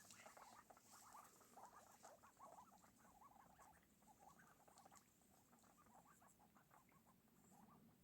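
Faint, rapid chatter of a group of ducks, many short soft calls overlapping.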